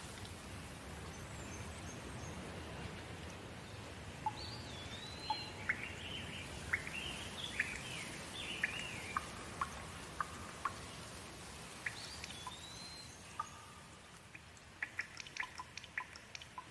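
Steady rain with a bird calling in short whistled, gliding notes through the middle. Near the end the rain thins and scattered drips tick in its place.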